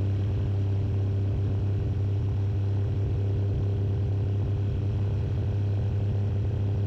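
Tecnam Sierra light sport airplane in cruise flight: the Rotax flat-four engine and propeller give a steady, unchanging drone with a deep hum.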